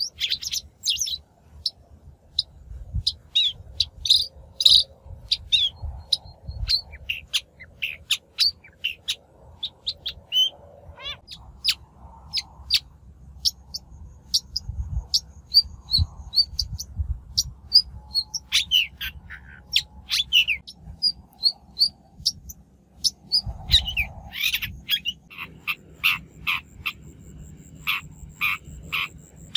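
Long-tailed shrike (bách thanh) calling in a rapid, varied run of short, sharp chirps and harsh notes, several a second with brief pauses. This is a lure recording of the species' natural voice, used to draw in wild shrikes.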